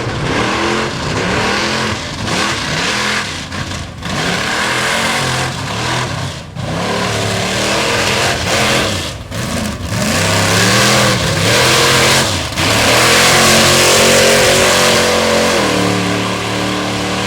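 Off-road 4x4 engine revving hard through mud, the revs surging and falling over and over with short throttle lifts. The engine is held loudest near the end.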